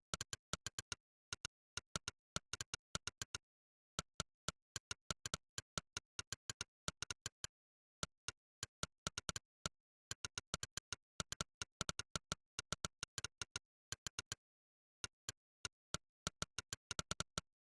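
Monkeytype's synthesized 'click' keypress sound, one sharp click per key typed, running in quick bursts of about six to eight clicks a second with brief pauses between runs.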